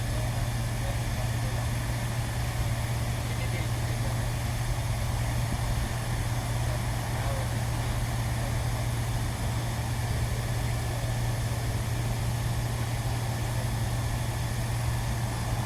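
A steady low machine hum, constant in pitch and level, with an even background hiss.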